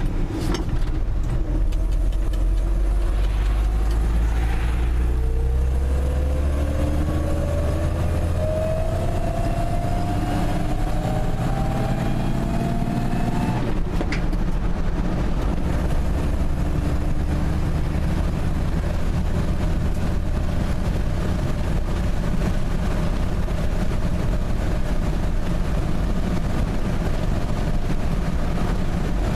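Dodge D150 pickup's 225 cubic-inch slant-six engine pulling while driving: its pitch rises steadily through the first half as the truck accelerates, breaks off with a click about halfway through at a gear change, then holds a steady drone at cruise.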